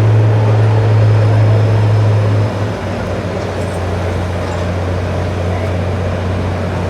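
John Deere 4630's turbocharged six-cylinder diesel engine running with a steady deep drone. It drops slightly in pitch and level about two and a half seconds in.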